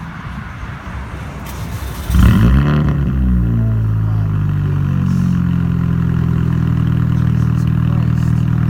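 Straight-piped 2004 Mini Cooper S (R53) supercharged four-cylinder starting about two seconds in with a loud flare of revs, then settling into a steady, loud idle through the open exhaust.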